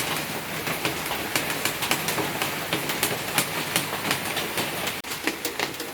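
Heavy monsoon rain falling steadily, a dense hiss full of sharp splattering drops on waterlogged ground.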